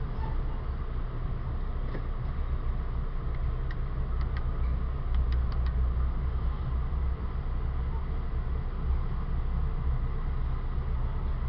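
Steady low rumble of a moving passenger train, heard from inside the ex-Metroliner cab car as it rolls along the track. A few faint clicks come about four to six seconds in.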